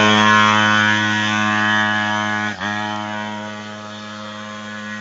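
Minibike's small engine running at a steady high pitch. About halfway through its note dips briefly, then it carries on as before, growing gradually fainter.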